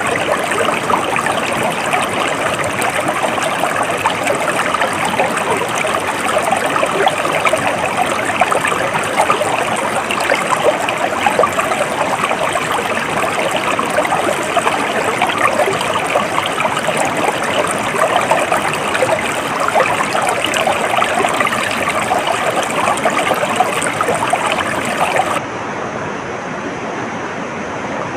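Stream water flowing steadily over rocks, a dense rushing and splashing. About 25 seconds in it cuts abruptly to a quieter, duller water sound.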